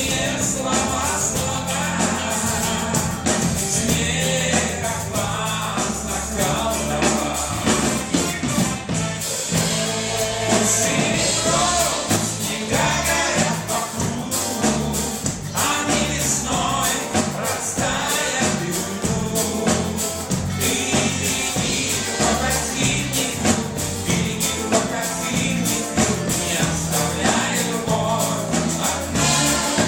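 A live pop band playing a song: singing over bass, drums and cymbals.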